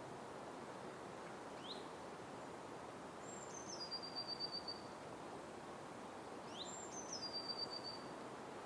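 A small songbird sings the same short phrase twice, about five seconds apart: a quick rising note, then a high note that steps down into a brief rapid trill. Under it runs a steady hiss of forest ambience.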